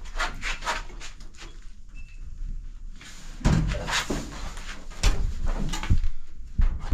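Clattering knocks, bumps and scrapes with several heavy thuds, as a washer or dryer is shifted and handled into place.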